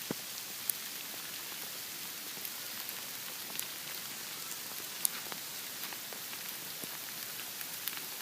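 Steady patter of falling sleet and ice pellets, with a few sharper ticks of pellets striking close by.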